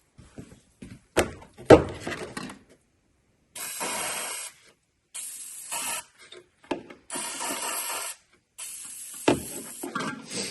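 A couple of sharp knocks, then an aerosol spray can sprayed in four bursts of about a second each, hissing.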